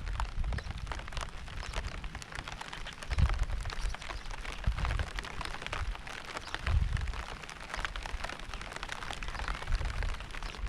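Steady rain with many separate drops ticking. Low rumbling bursts come and go every couple of seconds, loudest a few seconds in and about two-thirds of the way through.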